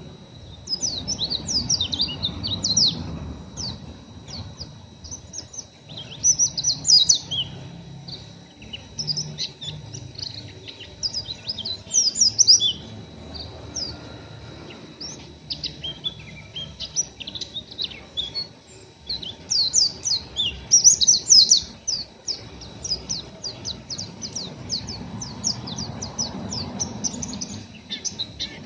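Pleci (white-eye) giving a rough, scratchy twittering typical of a still-raw, untrained bird: quick strings of short high chirps and sweeps in repeated bursts with brief gaps between them.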